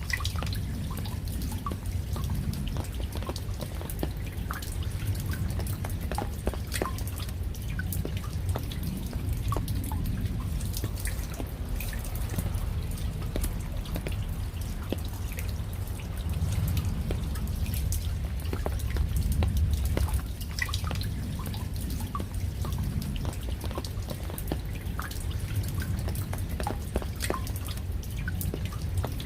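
Raindrops dripping: a steady patter of irregular, separate drops, each a sharp tick, over a steady low rumble.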